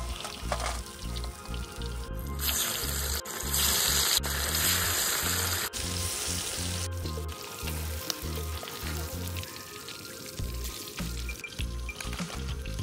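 Fish pieces frying in hot oil, sizzling, with a loud burst of sizzle from about two to six seconds in. Background music with a steady bass beat plays throughout.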